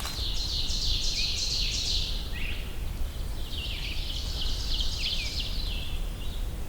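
A songbird singing two songs of quick, repeated high notes, each about two to three seconds long, a second or so apart.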